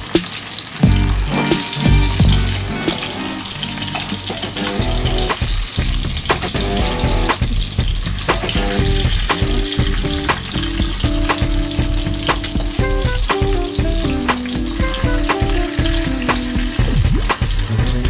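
Yellowfin tuna sizzling in hot oil in a nonstick frying pan, with scattered clicks of a metal fork against the pan as the pieces are turned. Background music plays over it.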